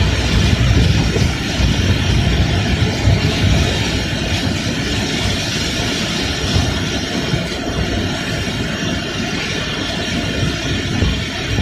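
Steady low rumble of a vehicle on the move, with an even hiss of rain and road spray over it.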